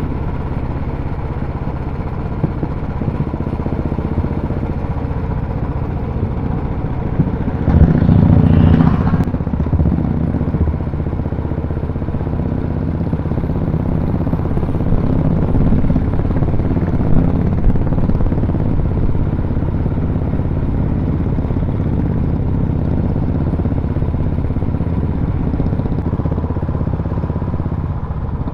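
Royal Enfield motorcycle engines running steadily on a group ride, with a louder surge for a second or two about eight seconds in.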